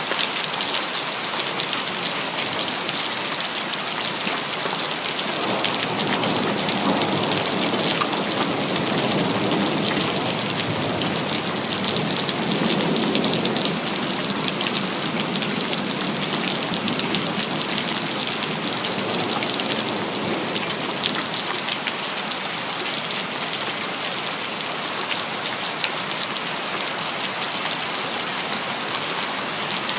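Steady city rain falling, with many individual drops audible. A low, distant rumble of thunder swells from about five seconds in and fades away after about twenty seconds.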